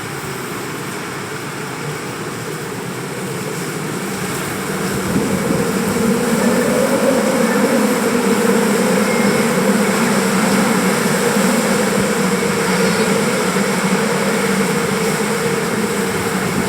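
Hurricane-force wind blowing in a steady rushing roar, growing louder about five seconds in and staying strong.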